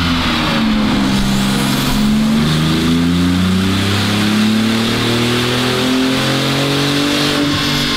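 Porsche 997 Turbo S twin-turbo flat-six with a Capristo exhaust running on a chassis dyno. Its note falls as it coasts down off the throttle, then rises steadily under full load as the revs climb again, and drops back near the end.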